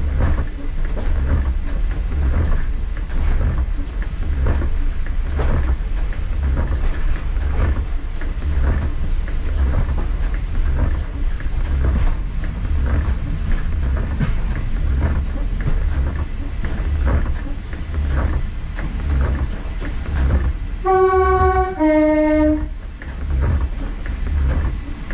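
Class 144 Pacer diesel railbus running along the line, heard from the driving cab: a steady engine and running drone with regular knocks of the wheels over rail joints. About four seconds before the end it sounds its two-tone horn, a short higher note followed by a short lower note, as it approaches a whistle board.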